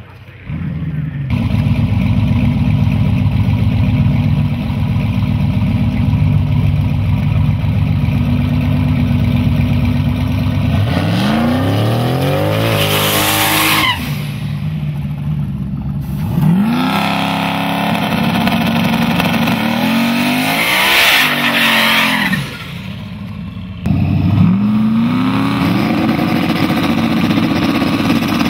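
Drag-racing car engines running loudly and steadily, then revved hard again and again in rising sweeps from about ten seconds in, with tyre noise, as a red Pontiac Firebird does a burnout and stages.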